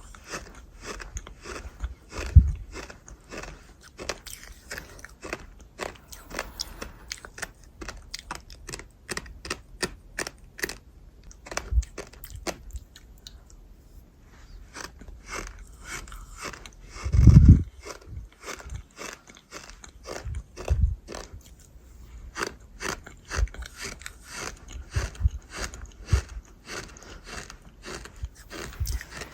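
Close-up crunchy chewing and biting, a dense run of crisp cracks that pauses briefly about halfway through. A heavier low thump comes a little after the middle.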